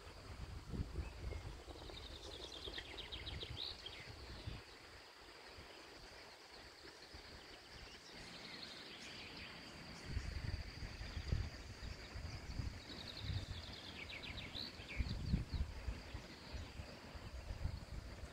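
A songbird singing a fast, falling trill twice, about ten seconds apart, over wind gusting on the microphone.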